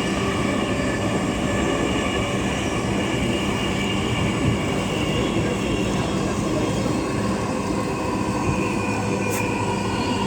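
Dhaka Metro Rail train running between stations, heard from inside the carriage: a steady running noise with several constant tones in it, and a faint click near the end.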